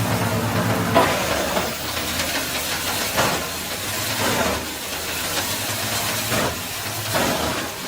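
A compact wood chipper-shredder's engine runs while branches are fed in and shredded. The engine hum drops back after about a second, and irregular sharp crunches break through the rough hiss of cutting.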